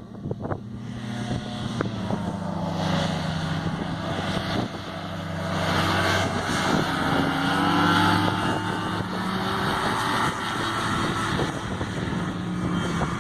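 Small racing hovercraft engine and fan running, the engine note rising and falling as it is throttled, loudest about eight seconds in.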